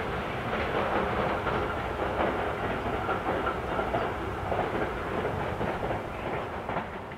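A train running out of sight on the line, a rumbling wheel-on-rail noise with some clatter that fades over the last second or so.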